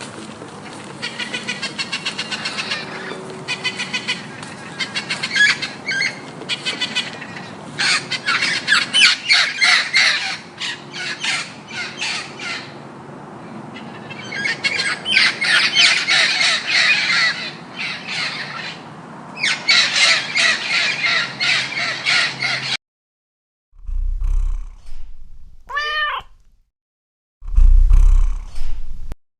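A flock of birds calling and squawking in rapid, overlapping crow-like cries, which cut off abruptly near the end. A different recording follows, with low rumbling bursts and one short falling cry.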